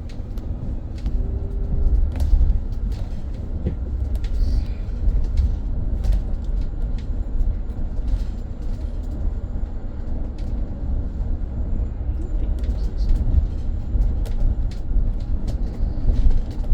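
Interior ride noise of a BYD BD11 battery-electric double-decker bus on the move: a steady low rumble from the road and running gear, with frequent small rattles and clicks from the bodywork and fittings.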